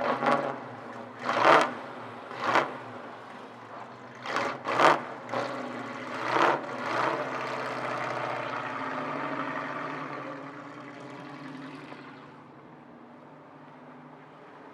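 Straight-eight engine of a vintage race car, blipped in several short, sharp revs over the first seven seconds. It then runs steadily and fades away about twelve seconds in.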